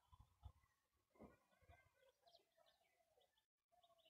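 Near silence with faint, scattered bird calls and a few soft low thumps.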